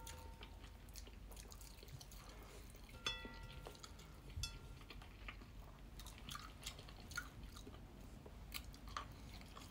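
Chewing a mouthful of rice, fried Spam and egg, with wooden chopsticks and a wooden spoon tapping on a ceramic plate. Two of the taps, about three and four and a half seconds in, leave the plate ringing briefly.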